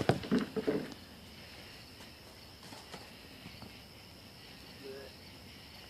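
Crickets trilling steadily, with a few faint clicks from the fire. A voice speaks briefly in the first second.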